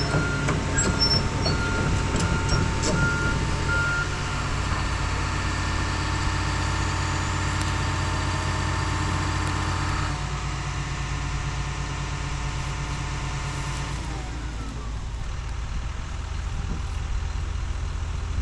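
Heavy diesel equipment running, with a backup alarm beeping steadily for the first few seconds as a machine reverses. About ten seconds in the engine note drops, and it slows with a falling pitch a few seconds later.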